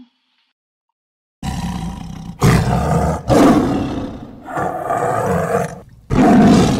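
Tiger roaring: a series of loud, rough roars that start about a second and a half in, with short breaks between them.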